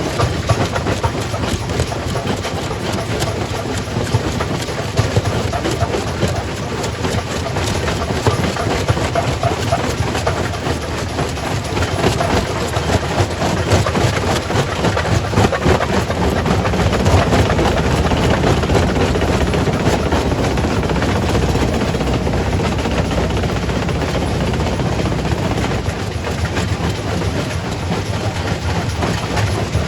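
Quarry primary rock crusher running, a dense continuous clatter of rock being broken and rattling through the machine over a steady low rumble.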